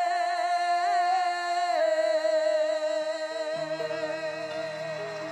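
A singer holds the long final note of a ballad's chorus, wavering with vibrato and slowly fading. Sustained backing chords with a low bass note come in under it about three seconds in.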